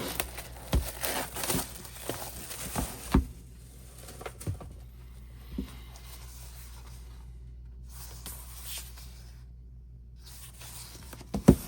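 Cardboard album packaging being opened and handled: tearing and rustling with scattered light knocks, busiest in the first few seconds, and a sharp pair of knocks near the end.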